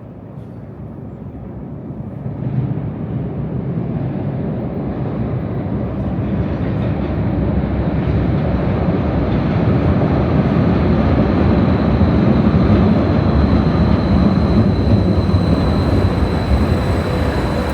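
Loud vehicle rumble that builds over the first few seconds and then holds steady, with a faint high steady whine in the second half.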